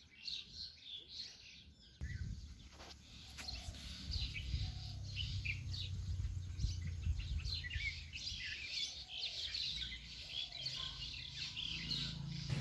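Birds chirping, many short calls repeated throughout, with a low steady rumble joining in from about two seconds in.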